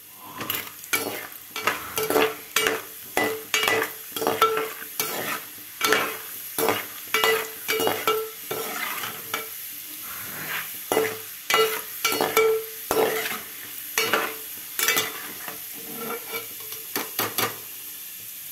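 Roasted gram (putnalu) deep-frying in hot oil: a steady sizzle with frequent, irregular sharp pops and crackles, which thin out near the end.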